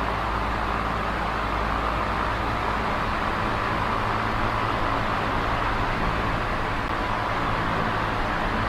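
Small oscillating electric fan running steadily: an even rush of moving air, with a faint motor hum underneath.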